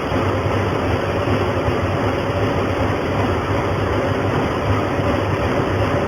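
Steady machine noise from laser welding robot equipment running: a constant low hum under an even hiss, unchanging throughout.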